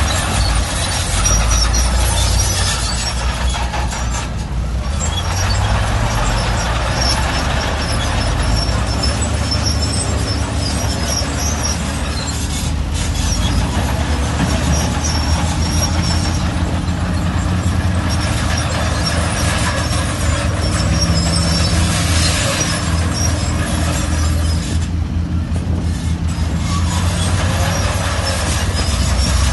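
Heavy diesel bulldozer working under load: a steady deep engine drone with clanking and intermittent high-pitched squeaking, typical of crawler tracks.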